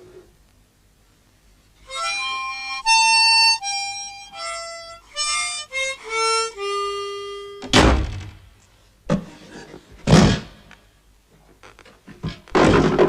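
A short harmonica phrase of separate held notes, mostly stepping downward, followed by a few loud, noisy thumps.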